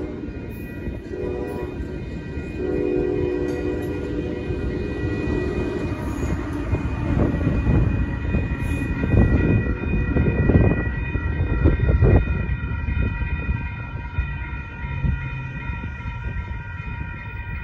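Commuter train passing over a road crossing: its horn sounds twice near the start, a short blast then a longer one, and then the train rumbles and clatters across, loudest in the middle as the locomotive at the rear goes by. Grade-crossing warning bells ring steadily throughout.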